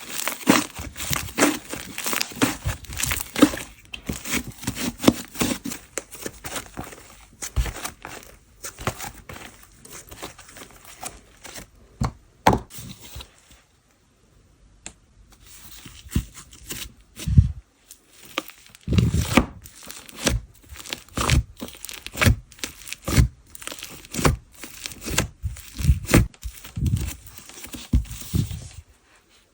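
Slime being squeezed, pressed and stretched by hand, making a dense run of sticky clicks, pops and crackles, with a quieter pause about halfway through.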